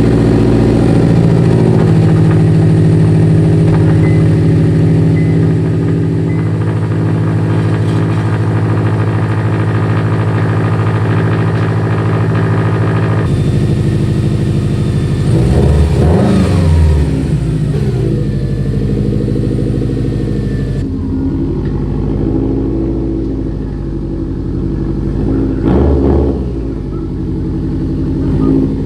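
Car engine idling with a steady drone, then blipped in several short revs in the second half.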